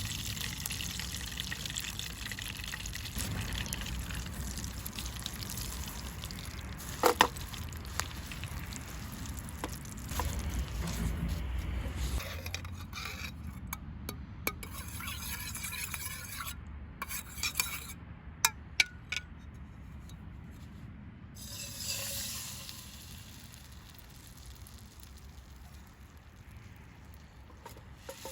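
Food frying in oil in a pan over a campfire, with a utensil knocking against the pan a few times. The frying is loudest in the first half and grows quieter toward the end.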